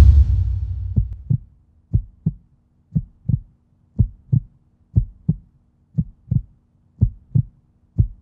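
Slow heartbeat: paired lub-dub thumps about once a second over a faint steady hum, following the fading tail of a deep boom at the start.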